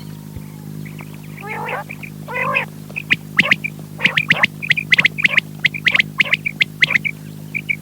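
Quail calling: quick short high notes in twos and threes, repeated over and over, mixed with sharper clipped calls and two rougher, lower calls near the start. A steady electrical hum runs underneath.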